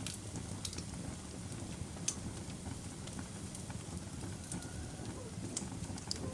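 Fire burning in a fireplace: a steady low rumble of flames with sparse sharp crackles and pops, about five in all.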